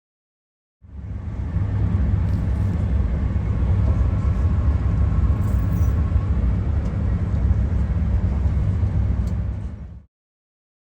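Moving passenger train heard from inside the carriage: a steady, loud, low rumble that sets in about a second in and cuts off shortly before the end.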